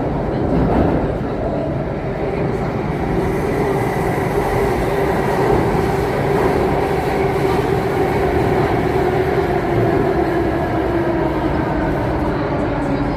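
Inside an Alstom Metropolis C830 metro train in motion: steady running noise from the wheels and rails, with the traction motors' whine drifting slowly in pitch.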